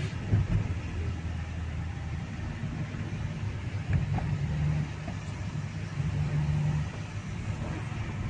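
Car interior noise: a steady low rumble of the engine and the car in slow traffic, with a low hum that fades and returns a few times.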